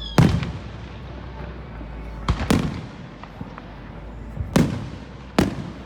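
Fireworks bursting: five sharp booms, a pair of them close together near the middle, each with a short rumbling tail, with a few fainter pops between.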